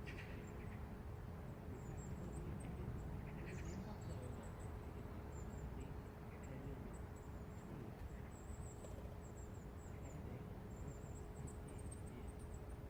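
Morning city ambience: a steady low rumble of distant traffic with a faint steady hum, and small birds giving short high chirps on and off over it.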